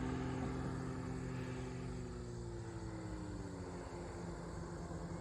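Distant small aircraft engine droning overhead, its pitch slowly falling partway through, over a steady outdoor background hiss.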